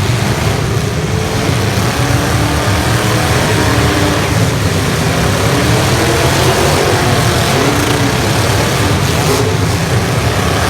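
Several 1980s stock cars' engines running and revving in a demolition derby, their pitches rising and falling over one another in a steady loud roar.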